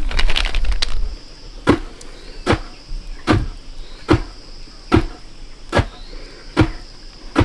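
A loud rustling noise for about the first second, then evenly spaced sharp knocks, about one every 0.8 s, like a hand tool striking repeatedly, over a steady high drone of insects.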